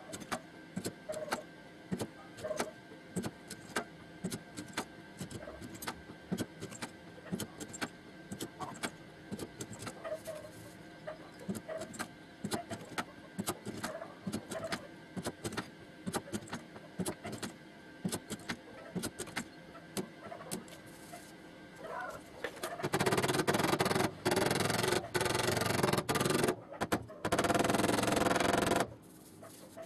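Many quick, irregular light taps and clicks on the car door's sheet metal during panel straightening. About two-thirds of the way in, a loud, even hiss starts and runs in stretches with short breaks until near the end.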